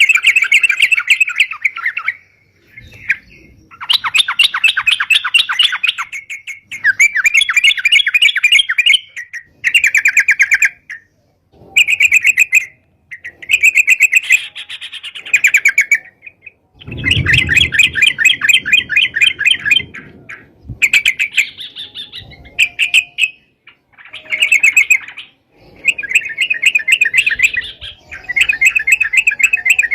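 Yellow-vented bulbul (crucukan/trucukan) singing vigorously: rapid, bubbling chattering phrases repeated in bouts of one to three seconds with short pauses between them.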